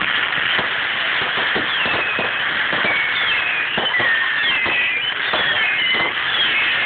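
Fireworks display going off in a dense run of crackles and bangs, with many short, high whistling glides over the top.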